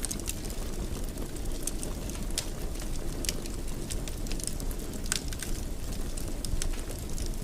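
Wood fire burning in a fireplace: a steady low rumble of flames with irregular, sharp crackles and pops every fraction of a second.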